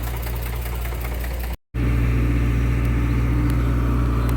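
Heavy diesel machinery running steadily, with a deep, even engine note. A short break of silence about one and a half seconds in, after which the engine is somewhat louder.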